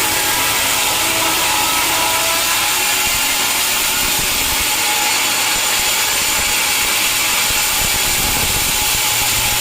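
Sawmill saw cutting through wood with machinery running, a loud, steady hissing noise at an even level.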